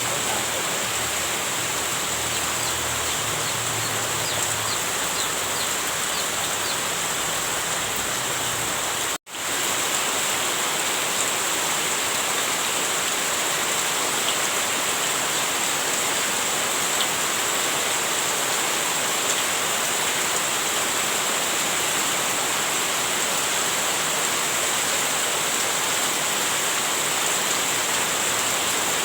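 Heavy rain falling steadily in a dense, even hiss. About nine seconds in, it cuts out for a split second and resumes, like a splice between two recordings.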